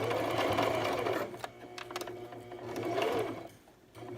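Sewing machine running a zigzag stitch through a hair track on a wig, in two runs: one from the start, a brief pause, then a second run that stops near the end. The motor whine rises and falls as the speed changes.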